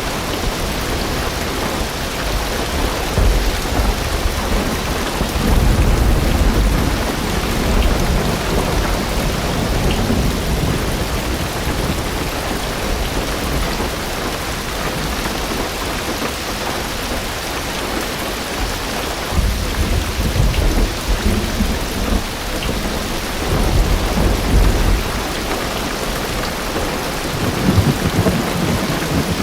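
Heavy rain drumming steadily on a car's roof and windows, heard from inside the car. Deep thunder rumbles swell up several times.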